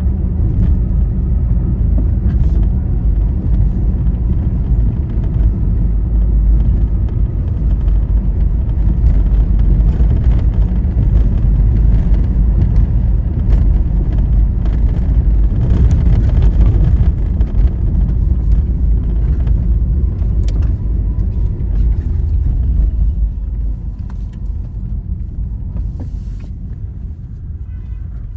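Steady low road rumble of a vehicle travelling along a highway, growing quieter over the last few seconds.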